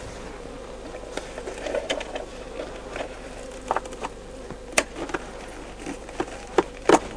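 Honeybees buzzing in a steady hum around an opened-then-closed Langstroth hive, stirred up by the inspection and not yet settled. Several short, sharp taps sound through it, the loudest just under five seconds in and again near the end.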